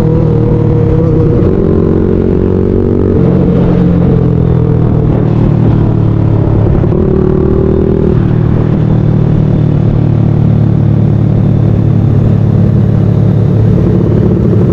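Motorcycle engine running loudly while riding, with a steady rush of road and wind noise; the engine note changes pitch about three seconds in and again just past the middle.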